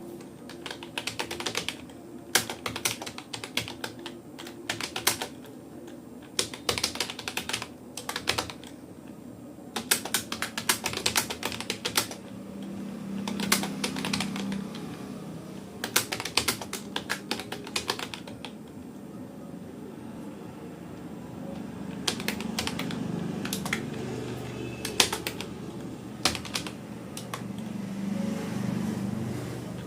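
Typing on a Rapoo computer keyboard: quick runs of key clicks in bursts of a second or two, broken by short pauses.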